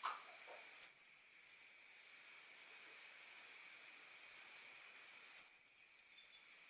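Orange-headed thrush (anis merah) giving its thin, high 'ngecis' call: two long whistles sliding downward in pitch, about four seconds apart, with fainter steady high notes between them. This is the call used to draw in a male.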